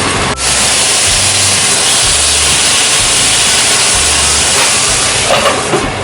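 An egg omelette sizzling loudly in a hot pan, a steady hiss that swells about half a second in and eases near the end, over a low rumble.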